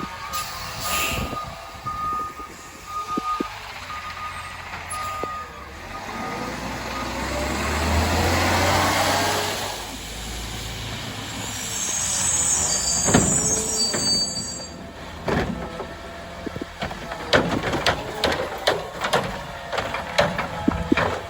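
CNG Autocar ACX garbage truck backing up with its reversing beeper sounding for the first few seconds, then its engine revving up as it drives. Its brakes give a high squeal and hiss about halfway through, and a quick run of sharp knocks follows near the end.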